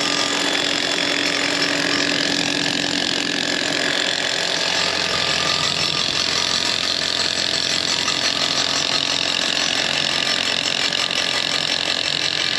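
An engine running steadily at idle, with a constant machine drone.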